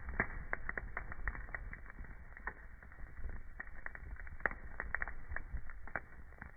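Wood fire burning in a fireplace, crackling with frequent irregular sharp pops over a low steady rumble of the flames. One louder pop comes about four and a half seconds in.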